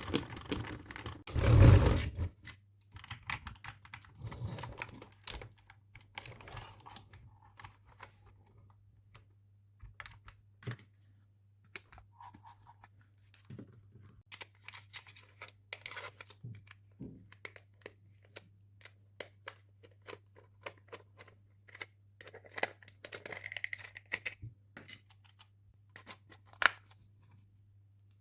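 Hands handling plastic toy parts and packaging: a loud crinkling tear of plastic wrapping about two seconds in, then scattered small clicks and taps of plastic pieces.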